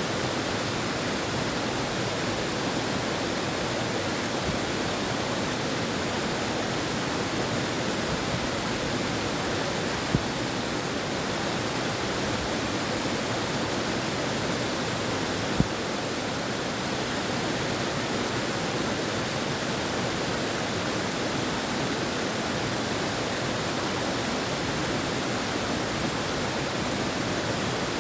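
River water flowing, with wind: a steady, even rush that does not change. Two brief pops break it, about ten and about fifteen and a half seconds in.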